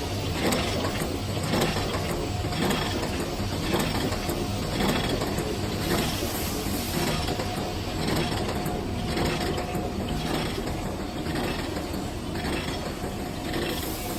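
Two-die four-blow cold heading machine running, forging M6×50 rivets: steady mechanical clatter with a heavier beat about once a second.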